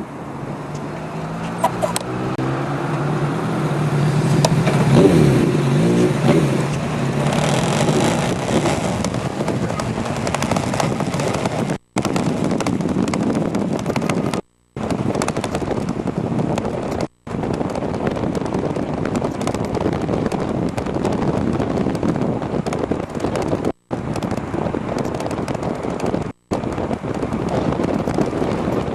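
Wind rushing over the microphone while riding an e-bike, with a pitched drone that rises in pitch and grows louder over the first several seconds. The sound cuts out completely for a split second five times.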